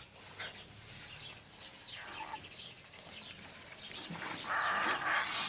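Cockatiels calling: faint short chirps, then from about four and a half seconds a louder raspy, hissing call.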